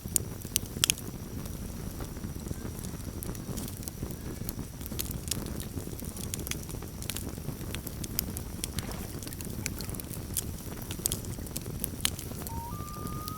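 Campfire crackling, with irregular sharp pops over a low steady rumble of the burning fire. Near the end a common loon starts a long wailing call that steps up in pitch.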